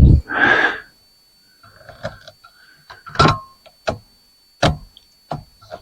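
Metal parts of a ceiling fan being handled and worked with tools. A short scrape near the start is followed by about five sharp, separate clicks and knocks spaced through the rest.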